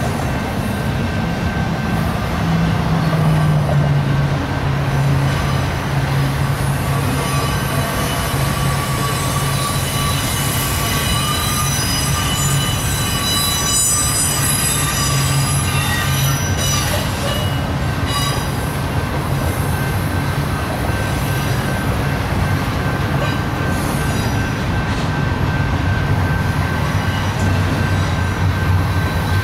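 Double-stack intermodal freight train's well cars rolling past, with a steady rumble of steel wheels on rail. A thin high-pitched wheel squeal rides over it and is strongest in the middle.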